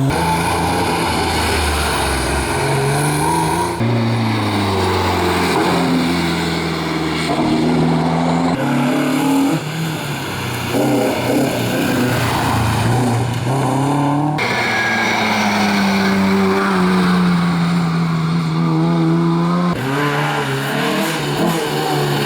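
Historic rally cars driven hard, engines revving up and dropping back through gear changes. The sound is in five short clips, each cut off abruptly by the next.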